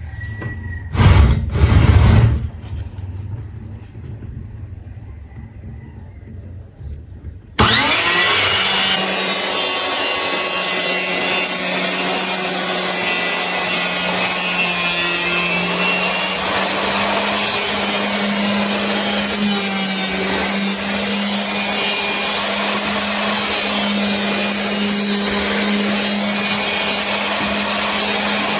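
A few knocks, then about seven seconds in a circular saw is switched on, spins up quickly and runs steadily and loudly with an even hum.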